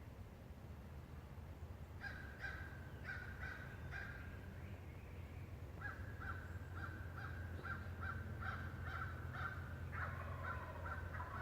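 Birds calling in runs of short, quickly repeated harsh notes, about two to three a second: one run about two seconds in, and a longer one from about six seconds on, over a steady low hum.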